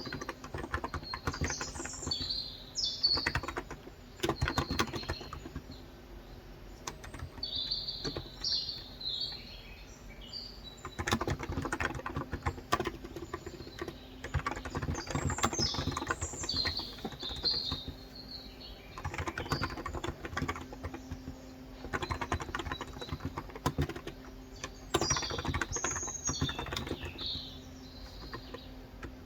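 Typing on a Cox Endeavor electrostatic-capacitive (35 g) tenkeyless keyboard: runs of rapid keystrokes in bursts with short pauses between them. Birds chirp in the background several times, over a faint steady hum.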